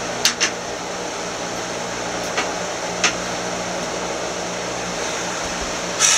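Steady whirring room noise with a low hum, like a fan running. A few short clicks come near the start and around three seconds in, and there is a brief rustle at the very end.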